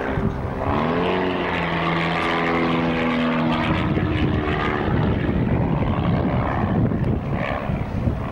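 Piston engines of propeller-driven aerobatic display aircraft flying overhead. The engine note rises about a second in and holds steady for a few seconds, then gives way to a rougher, noisier sound.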